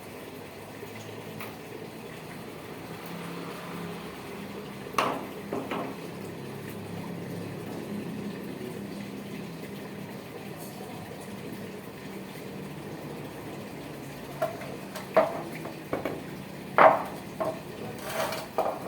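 Valve rocker-arm parts being washed by hand in a tray of cleaning fluid: liquid splashing and sloshing, with sharp metal clinks as parts knock together, once about five seconds in and several times near the end.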